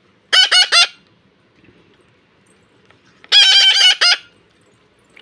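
Pet parrot screeching: a quick burst of three harsh calls just after the start, then after a pause a longer run of rapid calls about three seconds in.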